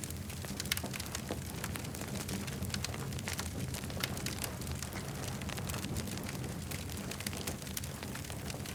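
Campfire crackling: frequent sharp snaps and pops, irregularly spaced, over a steady low rumble of burning.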